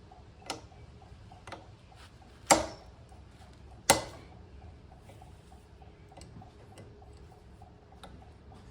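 Sharp metal clicks and taps as pliers grip and bend a cotter pin in the rear axle nut of a Yamaha YFZ450R. The two loudest snaps come about two and a half and four seconds in. A faint, even ticking runs underneath at about four a second.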